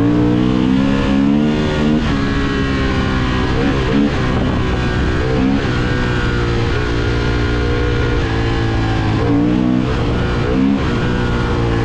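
2024 Honda CB750 Hornet's parallel-twin engine pulling under way, its note dipping and climbing again at several gear changes, with wind rush.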